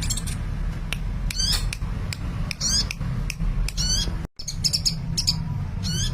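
Sunbird in busy song: a quick run of short, sharp, high chirps, several with fast up-and-down pitch sweeps, over a steady low hum. The sound cuts out for a split second about four seconds in, then the chirping resumes.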